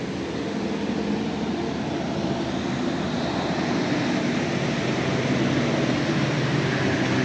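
A motor engine running steadily, with a low hum under a broad rush, slowly growing louder.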